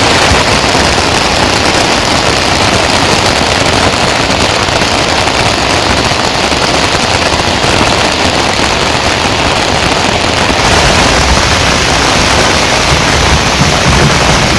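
Heavy rain falling in a dense, crackling patter, loud and steady.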